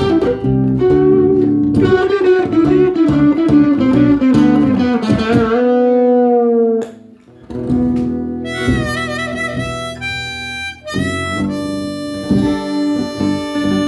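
Blues played on guitar and harmonica: busy guitar picking in the first half, a brief lull near the middle, then the harmonica holding long notes over guitar chords.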